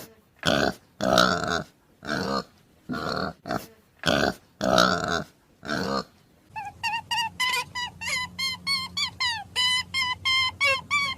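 An animal grunting in a run of short, rough calls about twice a second. About six seconds in, this gives way to a fast series of short, high chirps from a bird.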